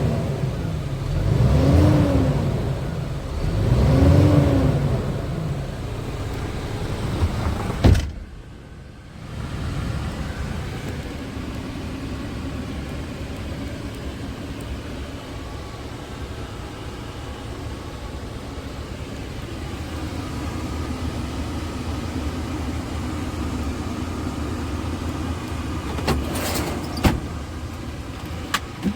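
Scania R450 truck's diesel engine revved three times in a row, each rev rising and falling over about two seconds. After a sharp click about eight seconds in, a steady engine hum runs on, with a couple of clicks near the end.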